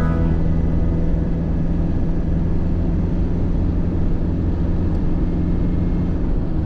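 Steady low rumble of a vehicle driving on the road, engine and tyre noise with a constant low hum, as music fades out in the first moment.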